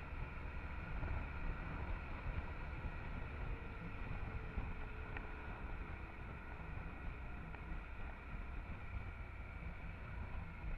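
Honda Transalp XL650's V-twin engine running while riding, a steady low rumble mixed with wind noise on the camera.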